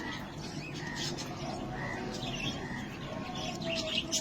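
Pied budgerigar chirping and chattering: a quick series of short, high chirps and warbled notes.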